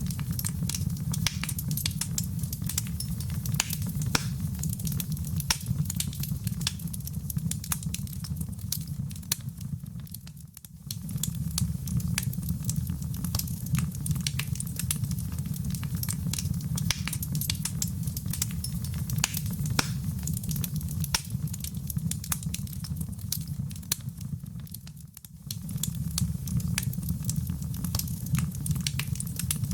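Wood fire burning in a fireplace: a steady low rumble of flames under dense, irregular crackling and popping. Twice the sound dips briefly and comes back.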